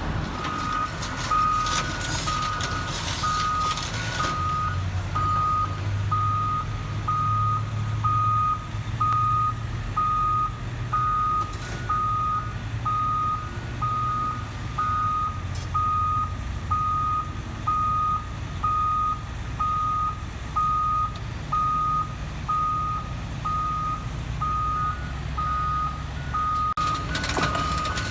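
Heavy equipment's backup alarm beeping steadily, a little more than once a second, over a low diesel engine rumble. A second, higher-pitched backup alarm beeps faintly near the start and again near the end, and there is a hiss in the first few seconds.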